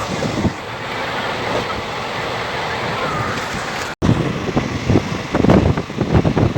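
Running noise of a moving train, a steady rush with wind buffeting the microphone; after a brief break about four seconds in, it turns to irregular low thumps and clatter.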